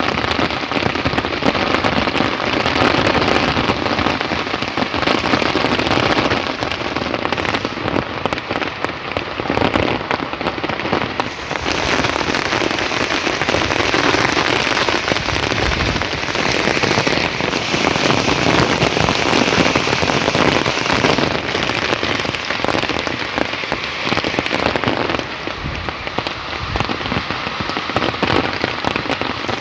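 Heavy, steady rain falling on surfaces, an even hiss of drops. Its sound changes abruptly about twelve seconds in and again about four seconds before the end.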